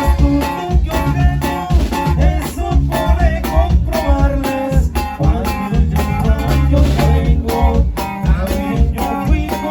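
Regional Mexican band music in an instrumental break: a plucked guitar melody over bass and a steady drum beat, with accordion.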